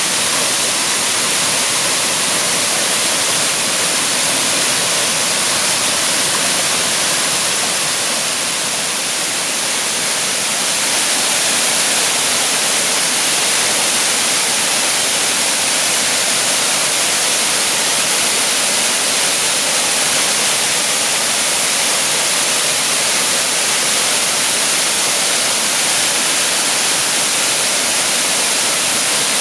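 Waterfall pouring steadily: a constant, dense hiss of falling and splashing water.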